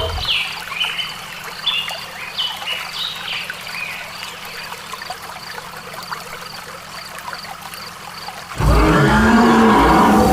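Water trickling and flowing in a small canal, with a few quick falling chirps in the first few seconds and faint regular ticking. About eight and a half seconds in, a loud low sound with a pitch cuts in and dominates.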